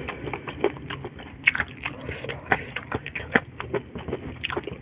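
Close-miked chewing of a mouthful of rice and chili-sauced shrimp, with many irregular wet clicks and smacks.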